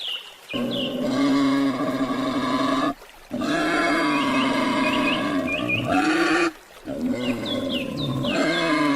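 Pig squealing in three long drawn-out calls, each lasting two to three seconds, with short high chirps in the background.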